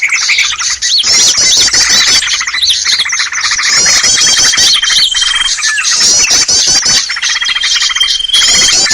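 Bird-luring (pikat) recording of many small birds chirping and squawking at once in a dense, noisy chorus. The same mix of calls comes back about every four seconds, as a looped lure track does.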